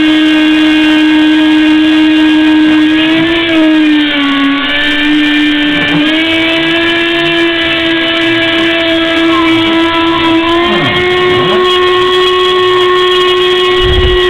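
Homemade MDF CNC machine running, its drive motors giving a steady whine with many overtones. The pitch dips and rises a few times as the machine's moves change speed.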